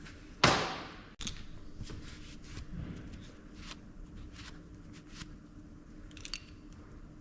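A sudden loud burst about half a second in, dying away over about half a second, then scattered light clicks and knocks of tools and parts being handled during the strip-down of a hydraulic cylinder.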